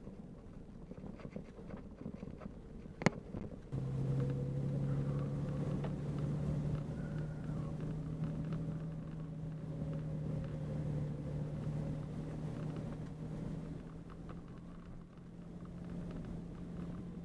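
Vehicle engine running steadily while driving, with a low rumble. There is one sharp knock about three seconds in, and under a second later the engine drone turns suddenly louder and stays steady.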